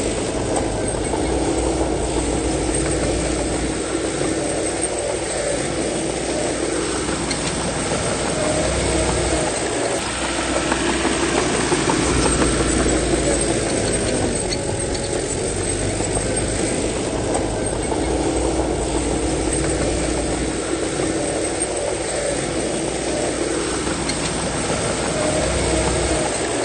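Heavy diesel earthmoving machinery working, likely a bulldozer, its engine note rising and falling as the load comes on and off every several seconds.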